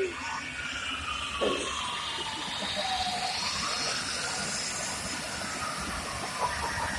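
Jet fire truck at a dragstrip: a steady hiss of jet engine noise, with a wailing tone that falls slowly over about three seconds and then rises again.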